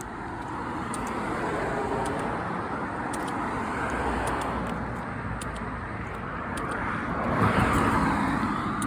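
Road traffic passing on a street: cars going by, swelling and fading, with the loudest pass about seven and a half seconds in.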